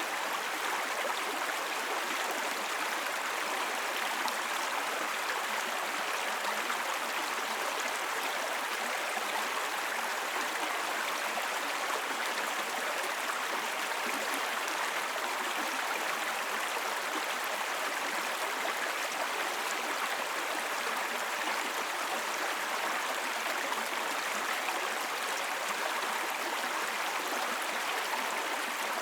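Small babbling brook: shallow water running steadily over stones, an even, unbroken burble.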